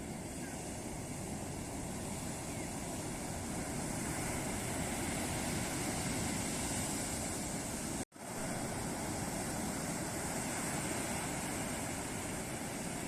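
Ocean surf washing continuously onto a beach, a steady rush of breaking waves that swells a little mid-way. The sound cuts out completely for an instant about eight seconds in, then resumes.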